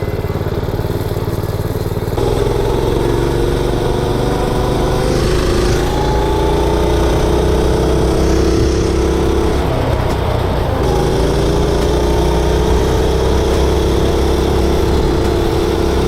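Mini bike's Predator 212cc single-cylinder four-stroke engine running under throttle as the bike is ridden. It picks up about two seconds in, eases off briefly around ten seconds, then pulls steadily again.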